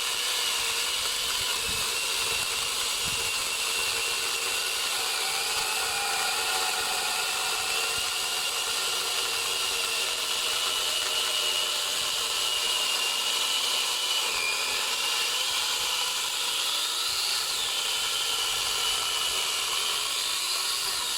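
Angle grinder fitted with a small chainsaw attachment cutting lengthwise through a thick hardwood trunk, a steady high whine under load. Twice near the end the pitch climbs briefly as the load on the chain eases.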